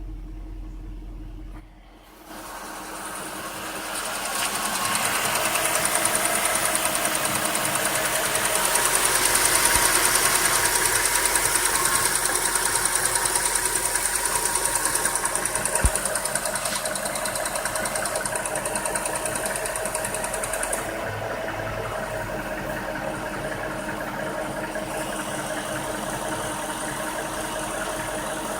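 2008 Jaguar XJ8L's V8 engine idling with a loud, rapid ticking. About two-thirds of the way through, the loud tick drops out, and a fainter ticking can still be heard under the idle.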